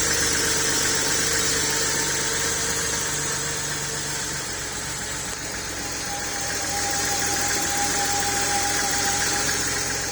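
Porsche 3.2 Carrera's air-cooled flat-six idling steadily once warm, dipping slightly in level about halfway and rising again. The idle is good even though cylinder one held only 22 psi of 100 on the leak-down test.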